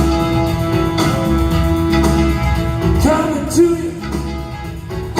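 Live band playing the instrumental intro of a soul number, with guitar, bass and drums, and a voice joining in about three seconds in.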